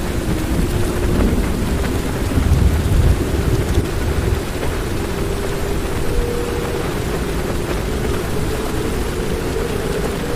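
Heavy rain falling on a car's roof and windows, with a low rumble of thunder swelling about two to three and a half seconds in.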